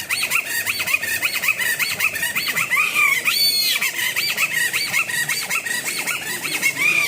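Kathputli puppeteer's mouth-held reed whistle (boli) giving a puppet its voice in a rapid string of chirping squeaks, several a second. One longer, louder squeal comes about three and a half seconds in.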